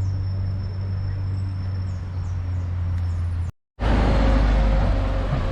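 Steady low engine hum of road traffic, with a few short, high chirps. After a cut about three and a half seconds in, louder traffic noise.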